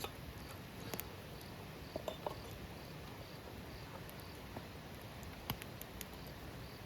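Wood fire crackling in a fire stand: a steady low hiss with a few sharp pops and clicks scattered through. A faint high chirp repeats about twice a second behind it, like an insect calling.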